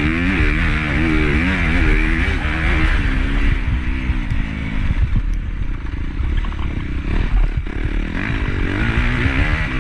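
Honda CRF250 motocross bike's four-stroke single-cylinder engine revving up and down under throttle, heard on board. About halfway through the revs drop away and the bike rattles and knocks for a few seconds, then the engine picks up again near the end.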